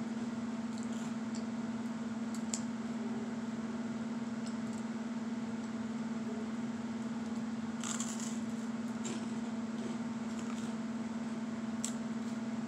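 A steady low hum, with a few faint crunches and clicks from chewing crunchy toast; the loudest crunch comes about eight seconds in.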